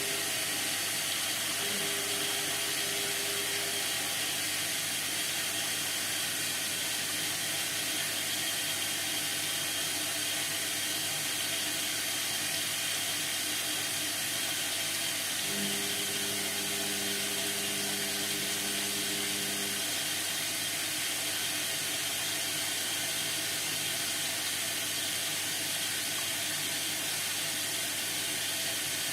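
Indesit MTWC71252WUK washing machine running mid-cycle on its sport program: a steady hiss throughout, with a low hum coming in briefly about two seconds in and again for about four seconds just past the halfway point.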